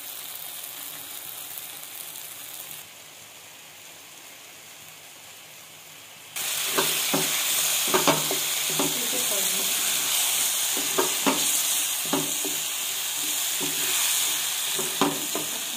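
Faint sizzling at first, then from about six seconds in a loud, steady sizzle of chopped tomatoes frying in oil, cooked down until their water has dried off. A wooden spatula stirs them, scraping and knocking against the pan every second or so.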